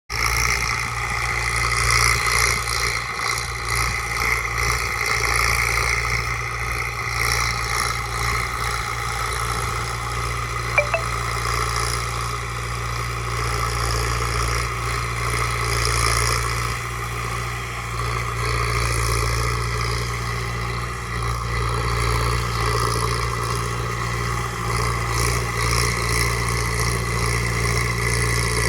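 Kartar 5936 4x4 tractor's diesel engine running steadily at a constant speed while working a super seeder. A brief sharp click about eleven seconds in.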